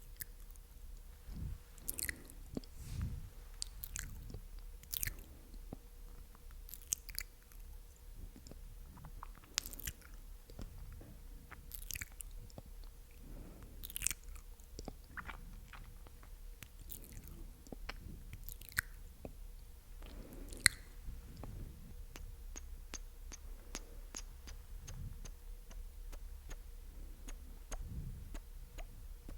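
Close-miked wet mouth sounds: sticky tongue and lip clicks and smacks, coming irregularly, a few louder ones standing out, and lighter ticks toward the end.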